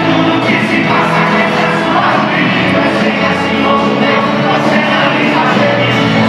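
Live sertanejo band music from a concert: full band with drums playing, with some singing over it.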